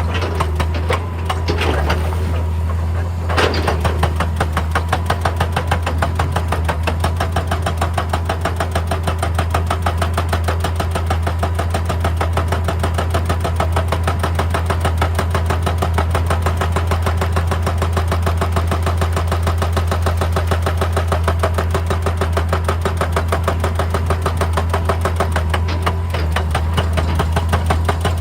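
Excavator running under work: a steady low diesel drone with a fast, even clatter of many pulses a second, and a few louder knocks in the first few seconds.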